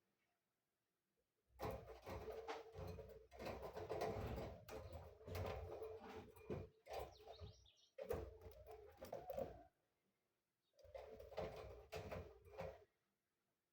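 Pet lovebirds chattering and chirping in three busy stretches, mixed with light knocks, with abrupt silent gaps between them.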